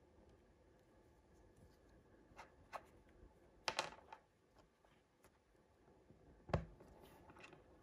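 Hands quietly handling small toy packaging: scattered soft crinkles and clicks, a few sharper ones in the middle, and one louder knock near the end.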